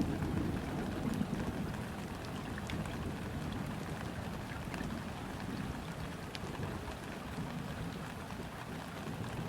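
Steady light rain falling onto a river, with many individual drops ticking against the water's surface. A low rumble of distant thunder is strongest at the start and eases off over the first couple of seconds.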